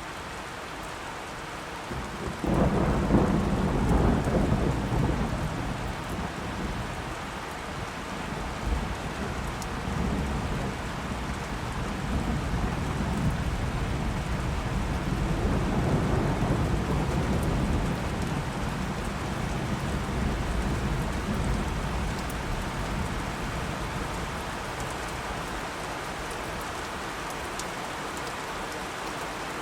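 Steady rain falling, with a thunderclap breaking about two and a half seconds in and rolling on as low rumbles that swell and fade for the next fifteen seconds or so.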